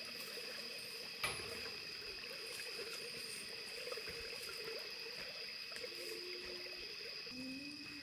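Faint trickling water, as from washing clothes, under a steady high-pitched drone. There is a single click about a second in.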